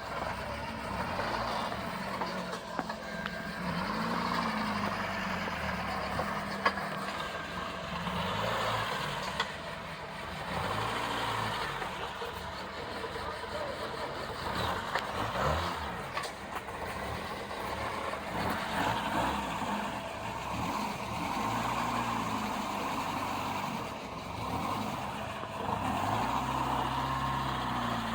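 Off-road vehicle engine revving up and down in repeated waves between slower running, as in low-speed rock crawling.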